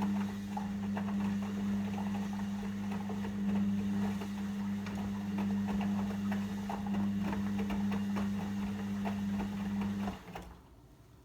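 Logik L712WM23 washing machine running with a steady low hum and light irregular rattling, which cuts off suddenly about ten seconds in.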